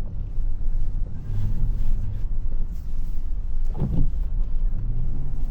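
Work truck's engine running, heard from inside the cab as a steady low rumble.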